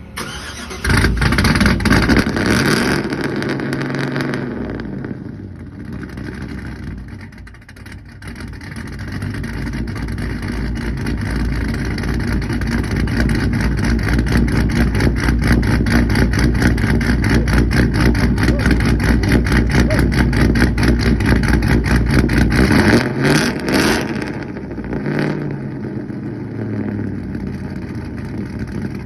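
Cammed pickup truck engine with headers and straight-piped exhaust, cold-started: it fires about a second in and runs at a fast, loud idle, then settles lower. From about 8 s the revs build and are held high until about 23 s, when they drop, with two short blips before it settles back to idle.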